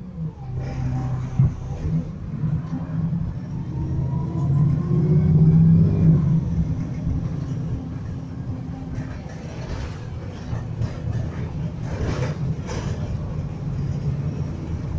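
Bus engine heard from inside the cabin, pulling under load with the vacuum-cleaner-like whine that bus enthusiasts call 'hoover'. It builds to its loudest about five to six seconds in, then eases back to a steady run.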